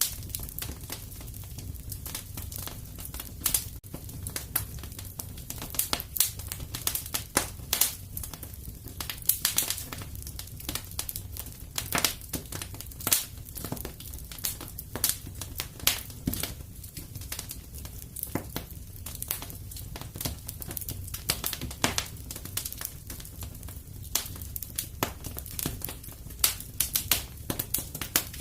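Wood fire burning in a fireplace: frequent irregular crackles and pops over a steady low rumble.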